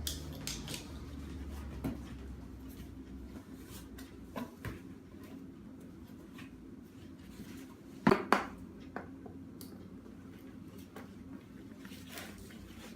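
Scattered light clicks and knocks of small hard objects, with two sharper knocks in quick succession about eight seconds in.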